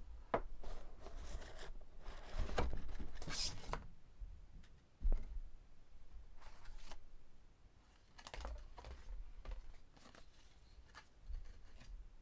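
Packaging being handled and torn open: irregular rustling, tearing and crinkling, with a sharp knock about five seconds in.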